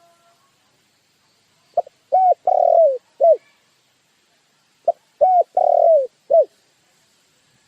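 A dove cooing: two identical phrases a few seconds apart, each a short note, a double note, a longer note falling at its end, and a short closing note.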